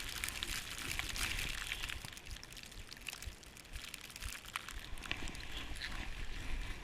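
Snow crunching and sliding as it is disturbed, irregular small crackles and crunches, with wind rumble on the microphone.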